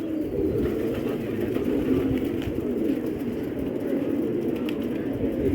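A flock of domestic pigeons cooing together, a continuous low, overlapping murmur of many birds.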